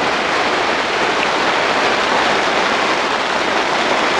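Heavy hail falling on the plastic cover of a polytunnel, heard from inside as a steady, dense hiss.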